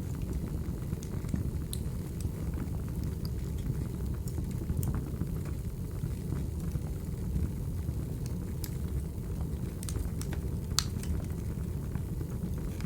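Crackling wood fire ambience: a steady low rumble of burning logs with scattered sharp pops and snaps, the loudest pop a little under three-quarters of the way through.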